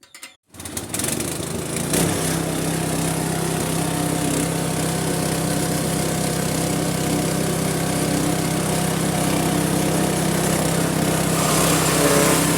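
Engine of a grass chopper machine starting up about half a second in and settling into a steady run, growing slightly louder near the end.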